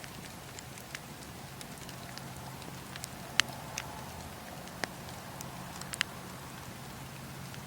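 Wood fire crackling in a fireplace: scattered sharp pops and snaps over a steady low hiss, the loudest pop about three and a half seconds in.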